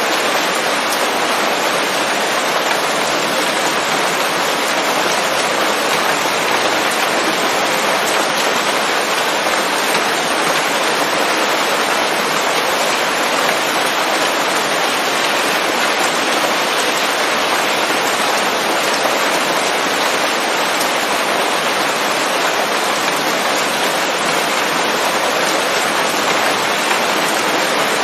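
Steady rain falling on leaves, an even, dense patter with no let-up and no thunder.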